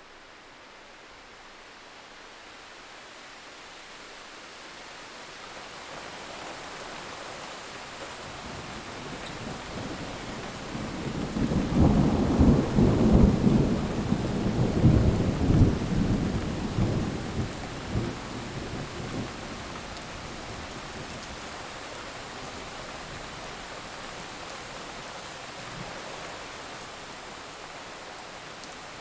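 Steady rain, slowly growing louder, with a long rolling thunderclap that builds to a loud rumble about eleven seconds in and dies away over the next several seconds.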